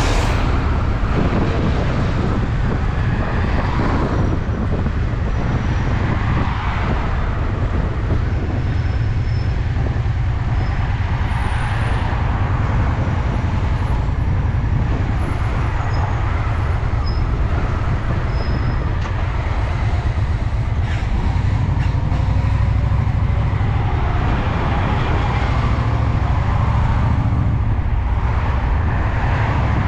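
Honda Shadow VT750's V-twin engine running steadily under way: a deep, even exhaust rumble with road and wind noise over it.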